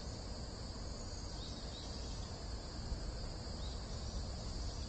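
Steady chorus of insects trilling in a summer forest: one continuous high-pitched hum with no break, over a low background rumble.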